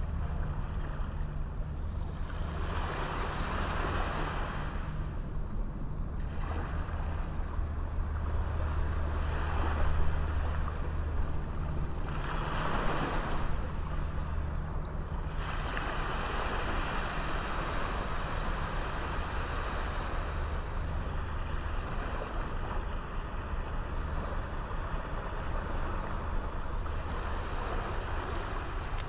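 Sea waves breaking and washing up a small beach, the surf swelling and ebbing every few seconds, over a steady low rumble.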